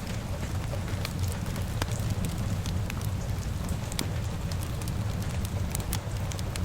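Wood fire crackling with frequent sharp pops, over steady rain and a low, constant rumble of wind.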